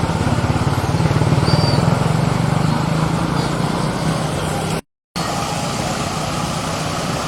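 A small engine running steadily close by with a rapid, even putter. It cuts off abruptly about five seconds in, and a quieter steady engine and road noise follows.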